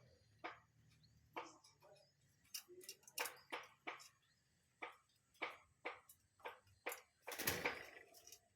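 Faint, irregular clicks and taps, roughly one or two a second, with a longer scuffling burst about seven and a half seconds in.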